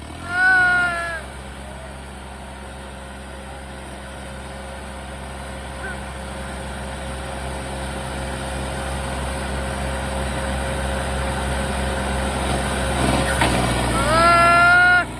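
Tractor diesel engine running steadily under load while pulling a stuck trolley, slowly growing louder. A loud high tone sounds for about a second near the start and again near the end.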